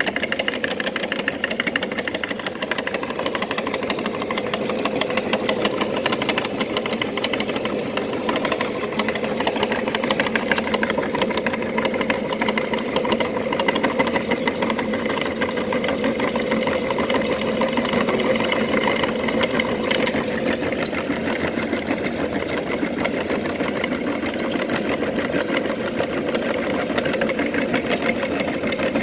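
Electric meat grinder motor running steadily, humming with a fast rattle.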